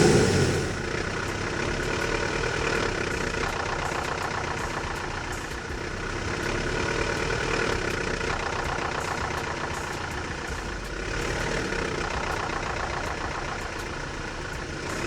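Audi engine idling steadily with a fault. The owner rules out the oil, has replaced the camshaft position sensor without curing it, and wonders whether a valve adjuster is to blame.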